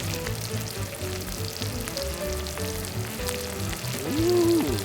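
Sliced duck and garlic sizzling as they grill, a fine steady crackle. A short rising-and-falling hum stands out near the end.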